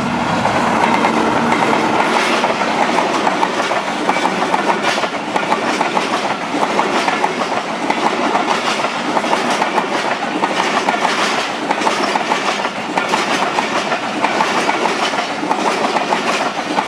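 Hazara Express passenger train running at speed, its steel wheels clattering over the rail joints in a steady, loud rush of rolling noise.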